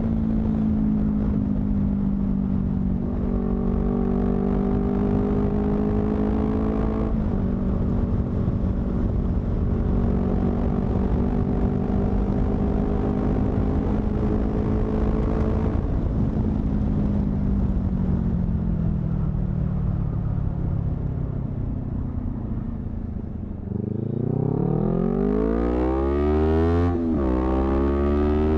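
Honda CBR250RR motorcycle engine through a modified exhaust, heard while riding: it holds a steady pitch for a long stretch, then winds down with a falling pitch as the bike slows. Near the end it revs up sharply with a rising pitch, drops briefly at a gear change and climbs again.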